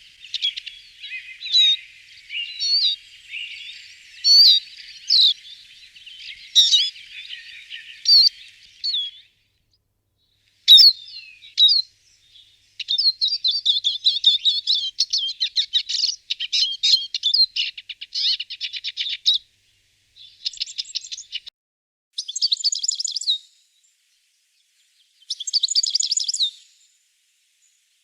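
Small birds singing: a run of short chirps and whistled notes, then after a brief gap several phrases of fast chirping trills, each a second or two long, with short silences between them.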